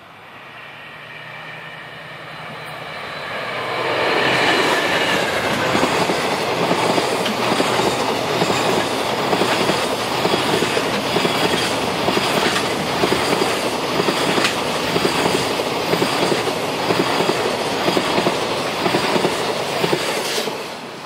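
JR Freight DF200 diesel-electric locomotive approaching with its engine running, growing louder, then passing close by. A long train of container wagons follows with a steady rhythmic clickety-clack of wheels over rail joints, and the sound falls away near the end as the last wagon passes.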